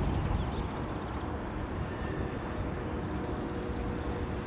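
Freight train cars (boxcars and covered hoppers) rolling past, a steady low rumble of steel wheels on rail.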